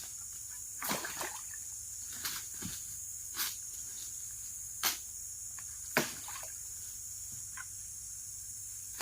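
Scattered sharp knocks and clicks, roughly one every second or so, over a steady high-pitched chorus of forest insects.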